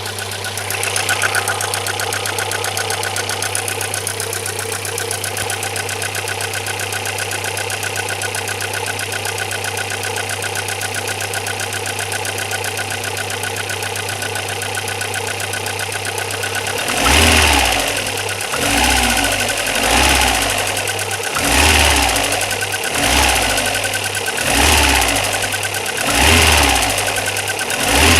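Alfa Romeo 146 Twin Spark's petrol engine idling steadily, then, about two-thirds of the way in, blipped repeatedly, roughly one short rev every second and a half. The owner records it to show a strange noise, which is not identified.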